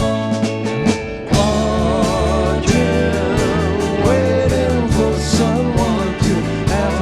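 Live rock band playing a slow song: drums with regular cymbal strikes, bass and guitars. A wavering melody line with vibrato comes in and the band swells about a second and a half in.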